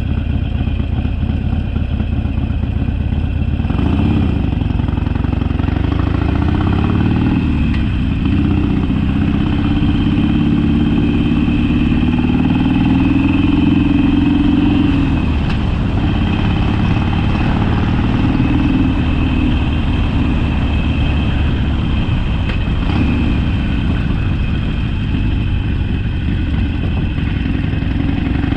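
Harley-Davidson Sportster's V-twin engine running under way. The revs pick up about four seconds in and climb, hold steady and higher for several seconds, ease off about halfway through, then run on at lower revs.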